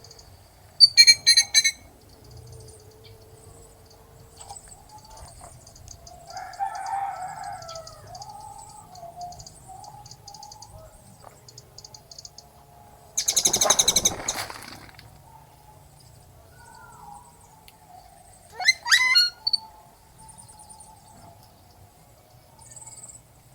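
Birds calling. Small birds chirp faintly and keep it up, and a few louder calls stand out: a short loud burst of notes about a second in, one long loud call of about a second and a half around the middle, and a quick rising call near the end.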